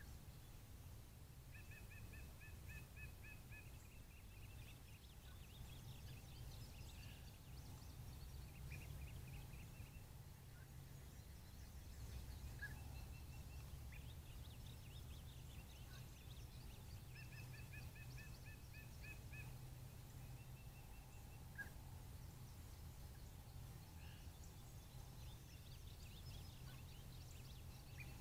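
Faint birdsong over a low steady hum. A bird twice gives a quick run of even chirps at two pitches, once a couple of seconds in and again past halfway, with scattered other chirps in between.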